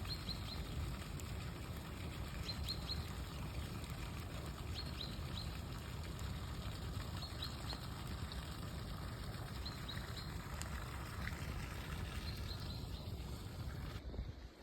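A small bird repeating a short phrase of three or four quick high chirps about every two and a half seconds, over a steady low rumble.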